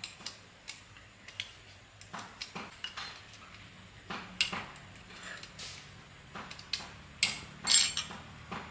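Irregular small metallic clinks and knocks of metal parts or tools being handled, with a louder cluster near the end.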